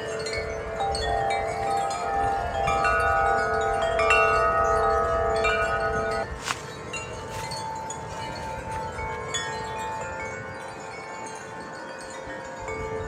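Wind chimes ringing in gusty wind, their long tones overlapping. About six seconds in there is a sharp clack, the lower tones die away, and a higher tone rings on. A low wind rumble runs underneath.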